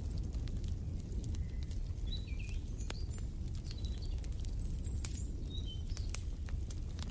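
Wood fire crackling, with frequent sharp pops over a low steady rumble, and a few short high bird chirps in the middle.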